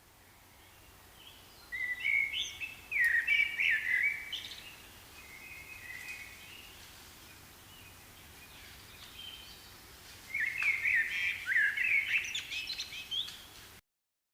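Pet parrot chirping in rapid short notes, in two lively bouts with quieter chirps between; the sound cuts off suddenly near the end.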